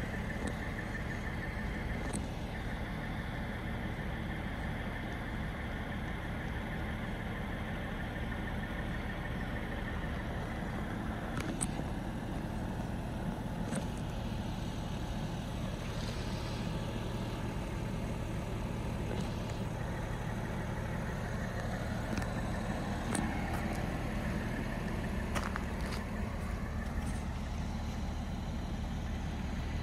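BMW M340i Touring's turbocharged inline-six idling steadily, with a few faint ticks over it.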